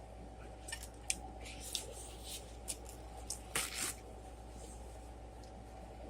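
Close-miked chewing mouth sounds: a string of short wet clicks and lip smacks while a mouthful of seared pineapple in mole sauce is eaten, the loudest smack a little past halfway, then only faint steady hum.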